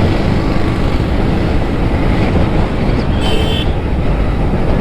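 Steady wind and road rush from a motorcycle riding at speed, with a short vehicle horn beep about three seconds in.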